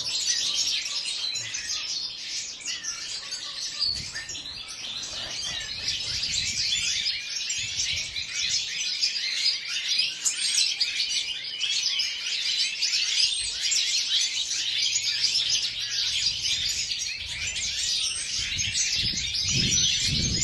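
European goldfinches chirping and twittering without a break, many quick overlapping calls at once.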